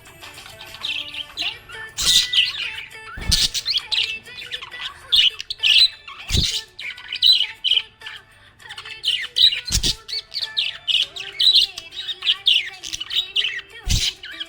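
Budgerigar chirping and warbling, a dense run of quick high chirps, broken by a few sharp knocks roughly every three to four seconds.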